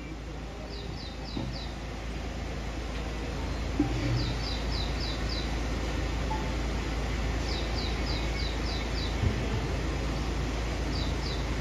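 A small bird calling in quick runs of about four to six short, high, falling notes, each run repeated every three seconds or so.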